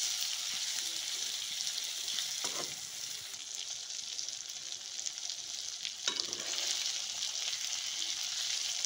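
Masala-coated chicken leg pieces sizzling as they fry in hot oil in a steel kadhai, stirred with a steel spatula. The spatula scrapes and knocks against the pan twice, about two and a half seconds in and about six seconds in.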